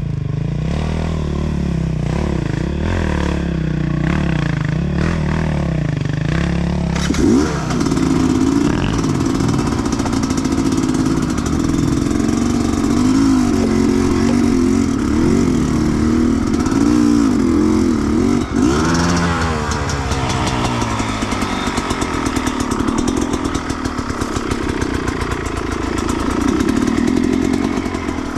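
Sherco 300 two-stroke enduro motorcycle engine being ridden off-road, its revs rising and falling continually with the throttle. The engine pitch steps up about a quarter of the way in and settles lower and steadier near the end.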